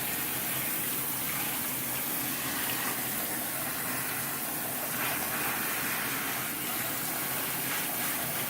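Water running steadily, rinsing perm solution out of hair set on perm rods under a perm rinsing cap.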